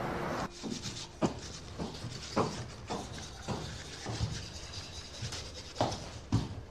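A series of soft, irregular taps and knocks, roughly one every half second to a second, over quiet room tone. They follow a steady background that cuts off about half a second in.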